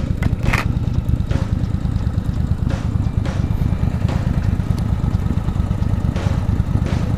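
Yamaha Virago cafe racer's air-cooled V-twin idling steadily at a standstill, with a few short clicks scattered through.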